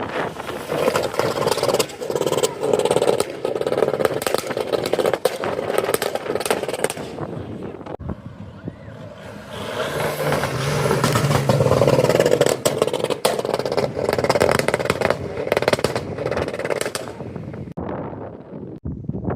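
Car engines running at a car meet, loudest in two long stretches with a lull between them.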